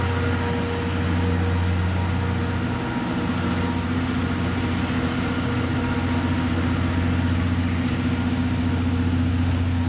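Steady low engine hum from a slow-moving train as its last passenger coach moves away, holding an even level with no chuffing beat.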